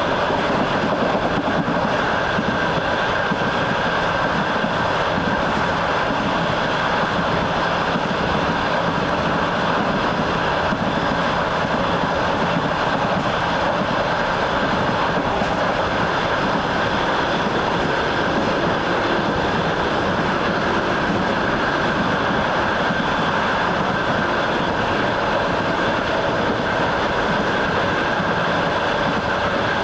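Train wheels running on the rails at a steady speed, heard from on board: a continuous, even rumble and rattle with a faint steady tone.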